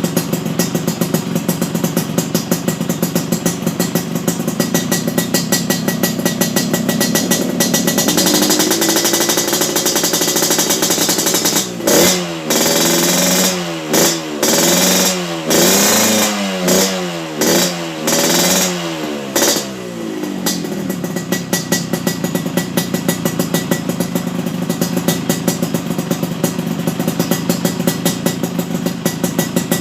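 Yamaha RX-King's two-stroke single-cylinder engine running through an aftermarket stainless-steel exhaust. It idles with a rapid pulsing, climbs in pitch, is revved in a string of quick throttle blips, and then settles back to idle.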